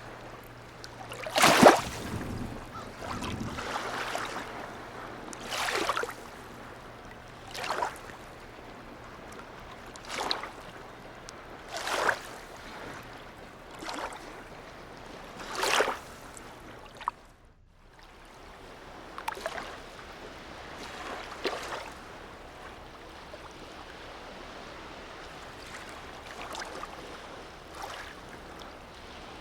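Small harbour waves lapping and slapping against the shore, a splash about every two seconds over a steady wash of water. Partway through the sound drops out briefly, and afterwards the splashes are softer.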